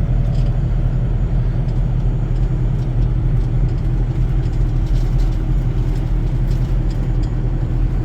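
Steady low rumble of a truck's idling engine, heard from inside the cab.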